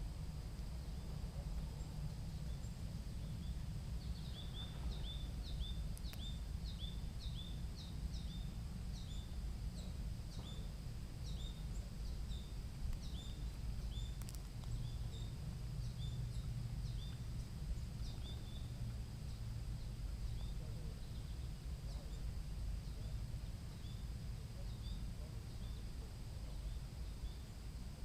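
Outdoor ambience with a steady low rumble. Over it, a run of short high chirps repeats about twice a second, starting a few seconds in and fading out after about fifteen seconds.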